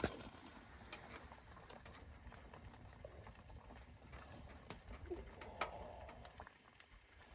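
Faint, scattered clicks and light knocks, with a sharp click at the very start and another about five and a half seconds in.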